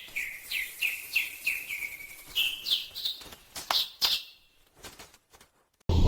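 A small bird calling: a quick run of short, downward-slurred chirps, about three a second, then a few higher, louder notes before it thins out to a few faint clicks. A sudden loud, low sound cuts in at the very end.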